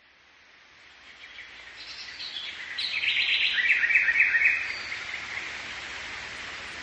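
Birds chirping and trilling over a steady background hiss, fading up from silence; the chirping is loudest around the middle.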